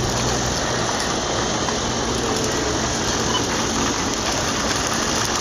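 Freight train running: a steady mechanical rumble with a low hum.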